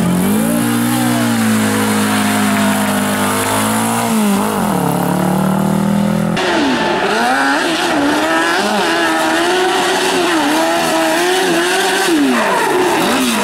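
Rally car engine at high revs, held steady for a few seconds and then dropping. About six seconds in, the sound cuts to a car whose revs rise and fall quickly through gear changes.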